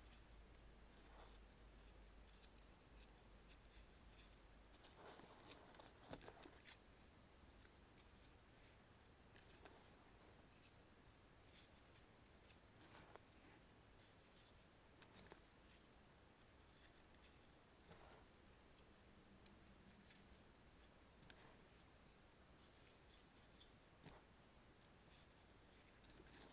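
Very faint paper handling for 3D origami: soft scrapes, rustles and small clicks scattered irregularly, with a brief cluster of them a few seconds in.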